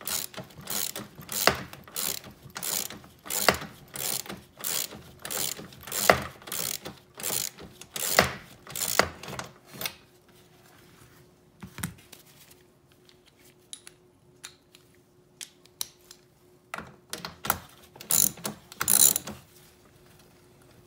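Socket ratchet with a deep 10 mm socket clicking in steady back-strokes, about two a second, as bolts are run down and snugged into a plastic grille. The strokes stop about halfway, leaving only a few scattered clicks, then come back briefly near the end.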